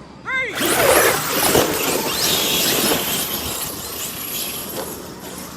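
Large-scale electric RC trucks running on the bash track. A brief rising-and-falling motor whine comes first, then about half a second in a loud rushing noise that holds for a couple of seconds and slowly fades.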